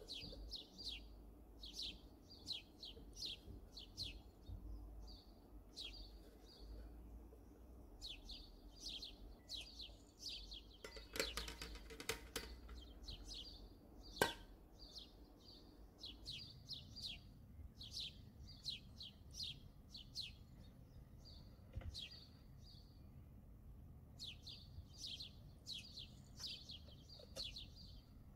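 Small birds chirping over and over in quick, high, falling notes, several a second. A brief harsher rasping sound comes about eleven seconds in, and a single sharp click just after fourteen seconds.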